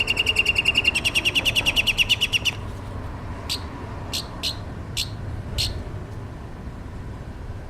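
A songbird singing: a fast trill of evenly repeated high notes, slightly changing pitch about a second in, breaks off about two and a half seconds in and is followed by five single sharp notes spaced apart.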